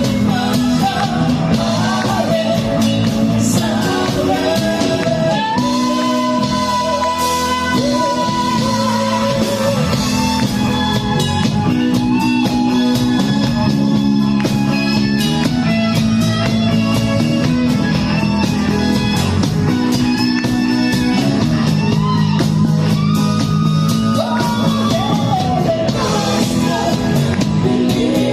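A rock band playing a song: a singer's voice over guitar and a steady bass and drum backing.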